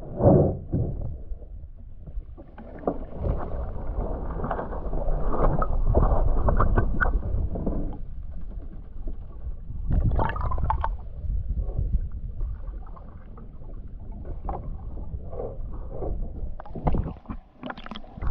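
Water sloshing and splashing around a canoe, muffled and rumbling, with a louder splash about ten seconds in and more near the end.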